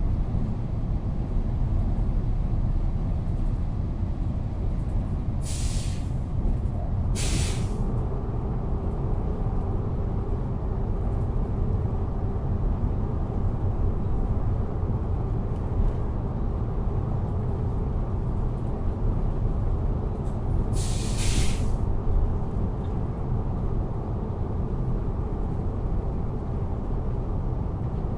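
Train interior ambience: a steady low rumble of the running train, broken three times by short hisses of air, twice close together about six seconds in and once about twenty-one seconds in.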